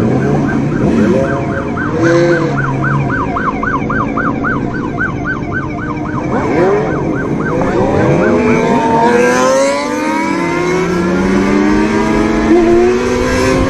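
Police siren yelping, its pitch sweeping up and down about three to four times a second, fading out after about seven seconds. Vehicle engines rev underneath, rising in pitch toward the end.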